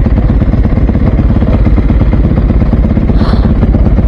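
Dirt bike engine running loudly and steadily.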